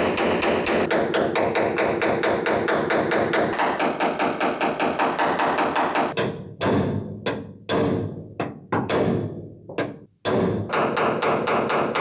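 Hammer striking sheet-metal body panel: a fast steady run of taps, about six a second. Past the middle it slows to a few separate ringing blows, then the fast tapping resumes near the end.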